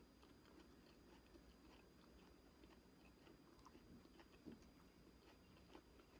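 Faint chewing and biting into an orange wedge: small scattered mouth clicks, one a little louder about four and a half seconds in.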